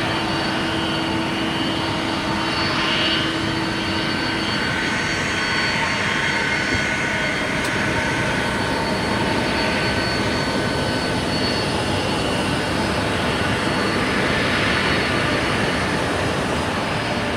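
Jet airliner engines running: a steady rush with several high whining tones held throughout.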